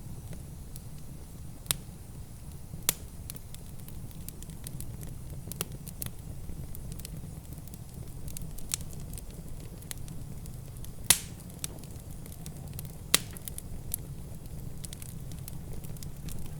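Wood fire in a fireplace crackling, with irregular sharp pops, the loudest about eleven seconds in, over a steady low rumble.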